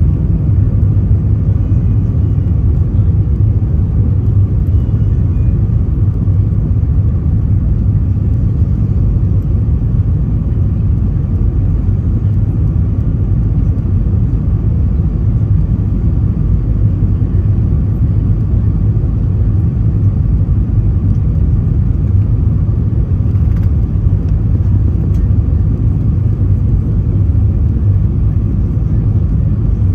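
Airbus A320 airliner on its landing approach: a steady, loud low rumble of engines and airflow.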